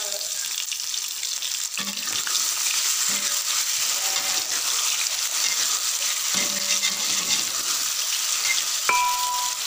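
Cubes of tofu sizzling as they fry in hot oil in a wok, stirred with a metal spatula. Light mallet-percussion music comes in near the end.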